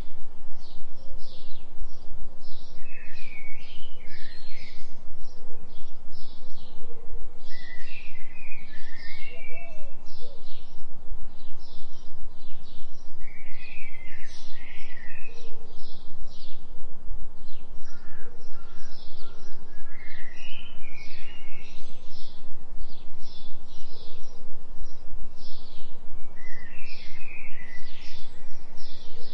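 Forest birds singing over a steady low binaural-beat tone. Quick high chirps repeat continuously, and a burst of lower warbling notes comes roughly every five seconds.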